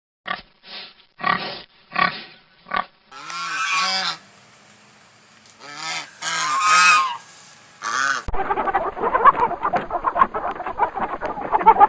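Domestic waterfowl honking: a quick run of about seven short calls, then two groups of longer honks. About eight seconds in, a sudden cut to a dense, noisy clatter of a flock.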